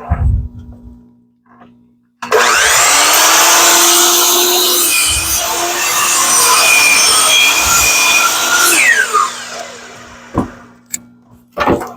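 Electric power saw starting up and cutting through a black walnut board for about six seconds, then the blade spinning down with a falling whine. A few sharp knocks near the end.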